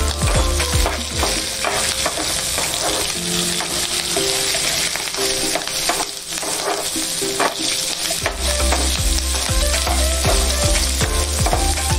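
Whole spices, shallots, green chillies and garlic sizzling in hot oil in a nonstick pan, stirred and scraped repeatedly with a spatula.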